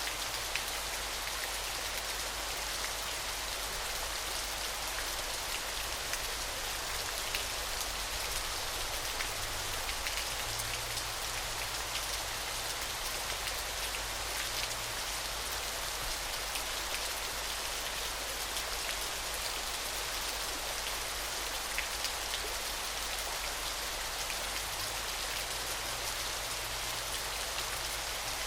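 Falling water splashing steadily: an even hiss with many fine drop-like ticks running through it.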